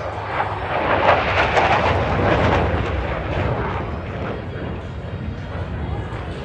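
Jet engine noise from the Thunderbirds' F-16 fighters passing overhead: a loud, dense roar that swells about a second in, eases off and builds again near the end.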